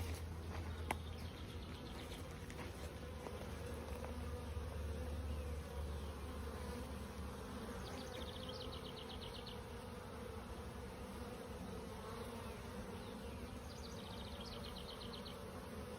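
A swarm of honeybees buzzing in a steady low hum around a new hive as they are coaxed to go in. A short, high, rapid trill sounds twice, about halfway through and near the end.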